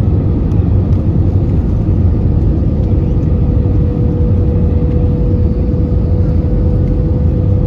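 Steady engine drone inside the cabin of an Airbus A320-214 with CFM56 engines: a deep, even rumble with a steady hum-like tone over it that grows clearer over the second half.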